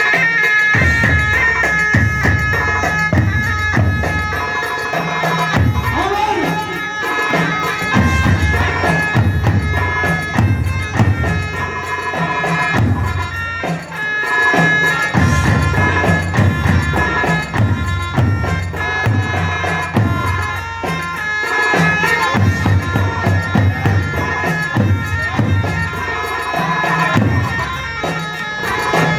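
Arabic folk wedding music: a reedy wind instrument plays a melody over a steady held drone, with a drum beating underneath.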